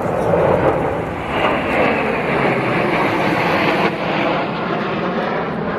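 Military aircraft flying past low at an airshow: a loud, steady engine rush that grows brighter about a second in and loses its hiss about four seconds in as it passes.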